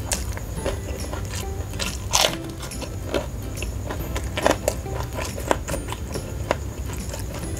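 Close-miked chewing with the mouth closed: irregular wet clicks and smacks from a full mouth, the loudest about two seconds in, over a steady low hum.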